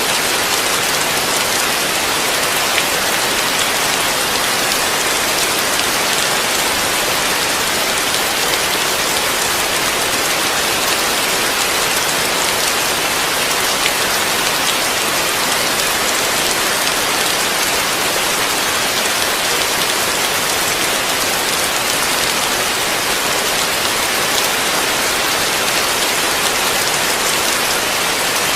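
Heavy rain falling steadily on a roof, heard from under it: an even hiss with faint scattered drop ticks.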